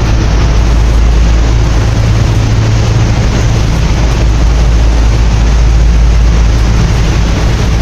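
Cruise boat under way on the river: a loud, steady low rumble with a rushing noise over it.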